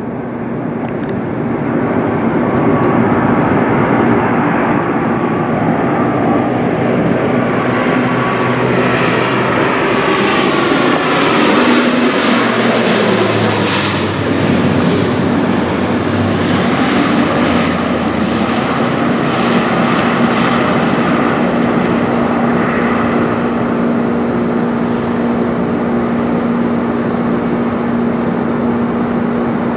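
De Havilland Canada Dash 8-400 turboprop, with its Pratt & Whitney PW150A engines, flying low overhead. The engine drone builds over the first few seconds, a high whine falls in pitch about halfway through as the plane passes, then the drone carries on steadily and eases slightly.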